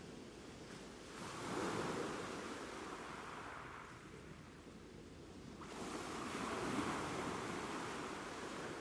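Ocean surf: two waves break and wash in, one about a second in and another a little past halfway. Each swells up suddenly and then slowly fades.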